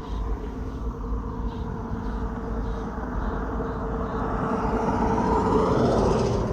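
Car driving along a road, with a steady engine and tyre rumble. The rushing noise swells toward the end and eases off again.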